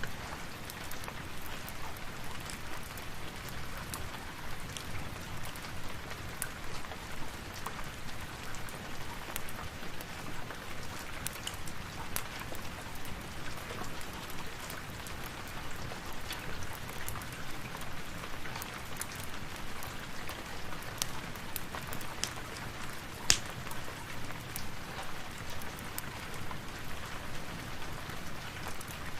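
Steady rain hissing, with scattered sharp crackles and pops of a wood fire over it; one pop about two-thirds of the way through is much louder than the rest.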